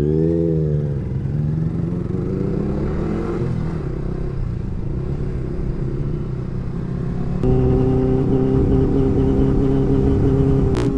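Road vehicle engine running, its pitch dipping and rising in the first second, then settling into a louder, steady drone from about seven seconds in. A sharp click comes right at the end.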